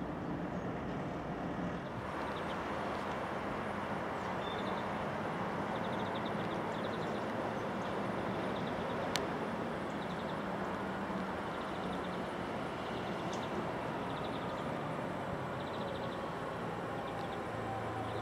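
A DB Class 425 electric multiple unit approaching, heard as a steady rumble. Near the end a falling whine from its electric drive comes in as it slows for the platform. Short bird trills sound high above it.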